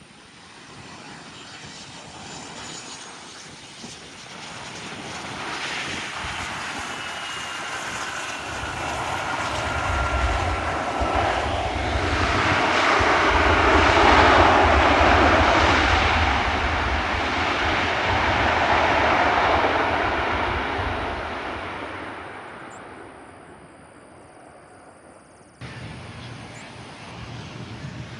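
Private jet passing close by: its engine noise builds up, peaks about halfway through and fades away. A whine falls in pitch as it goes past.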